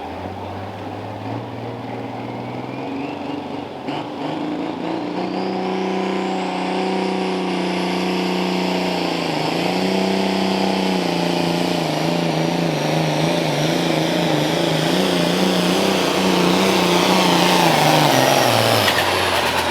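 Turbocharged diesel pulling tractor under full load dragging a weight-transfer sled. The engine climbs to high revs about four seconds in and holds there, wavering, with a high turbo whine rising over it, and the whole sound grows louder. Near the end the pitch drops as the sled's load pulls the engine down at the end of the run.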